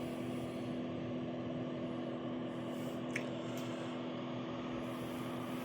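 Steady whirring hum of electric space heaters' fans and the portable power station running them, with a constant low tone under it.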